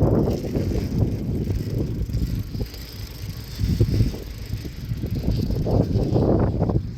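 Wind buffeting the microphone of a moving bicycle, a rumbling, uneven noise that rises and falls in gusts, with tyre and road rumble underneath.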